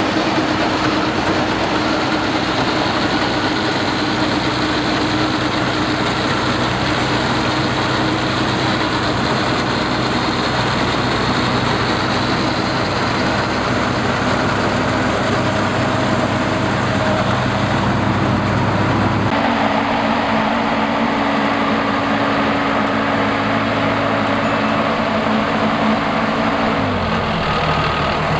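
Rice combine harvester engine running steadily under load. About two-thirds of the way through the sound cuts abruptly to another stretch of engine noise, and near the end the engine's pitch drops as it slows.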